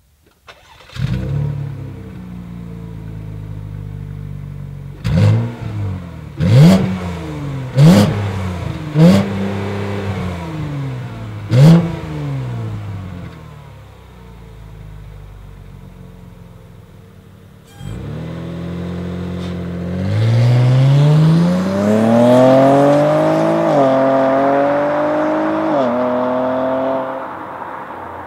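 2018 Holden Commodore VXR's 3.6-litre LGX V6 exhaust: it fires up with a brief flare, idles, and is blipped five times in quick revs before settling back to idle. Then it pulls away hard, the engine note rising steadily with two upshifts of the nine-speed automatic near the end.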